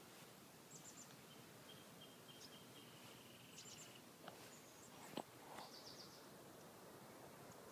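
Faint garden ambience with small birds chirping now and then and a thin high steady note for a couple of seconds early on, plus a single sharp click about five seconds in.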